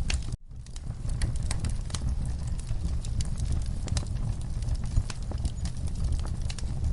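Wood fire crackling in a fireplace: many irregular sharp pops and snaps over a steady low rumble of flames. The sound cuts out briefly about a third of a second in, then carries on.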